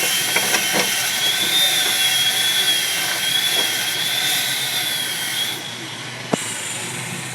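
Steady machine noise with a high, wavering whine. It drops in level about five and a half seconds in, followed by a single sharp click.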